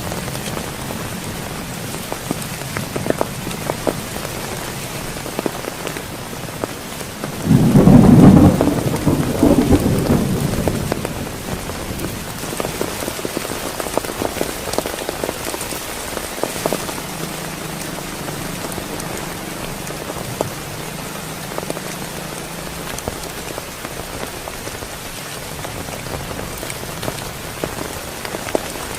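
Heavy rain falling steadily, with scattered individual drops ticking. A loud clap of thunder breaks a quarter of the way in and rumbles away over about three seconds.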